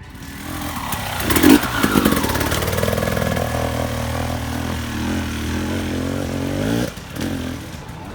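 Dirt bike engine revving and pulling as it rides past close by, loudest about a second and a half in, changing pitch as the throttle opens and closes, and dropping away sharply near the end.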